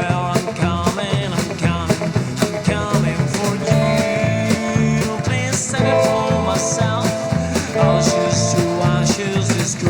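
Rockabilly band playing live: upright bass, drums, electric guitar and acoustic guitar, with a steady driving beat.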